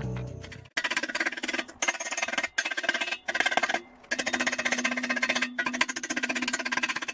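Stick-welding arc crackling and sputtering from a 180-amp transformer welder set to 75 amps, burning 2.5 mm 6013 rods. The arc comes in a string of short runs of a second or so, broken by brief pauses as the arc is struck and broken again. Music fades out just before the first run.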